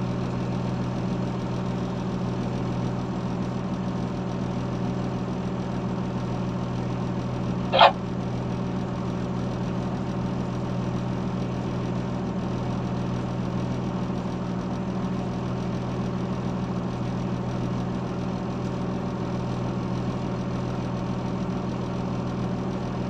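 Heavy road machine's diesel engine running steadily at an even pitch. About eight seconds in, one brief, sharp, loud sound cuts in.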